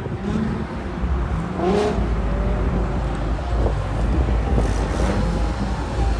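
Car engines running at a car meet, a deep rumble that gets louder about two seconds in.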